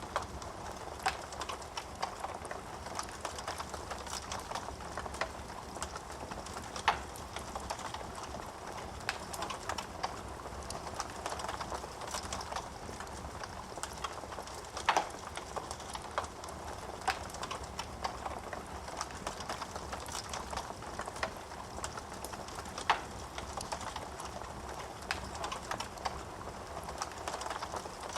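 Wood fire burning in a fireplace: a steady hiss of flames with irregular crackles and pops from the burning wood, a few sharper pops standing out about 7, 15 and 23 seconds in.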